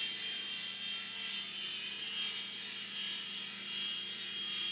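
Remote-control toy helicopter in flight, its electric motor and rotor blades whirring steadily with a high whine.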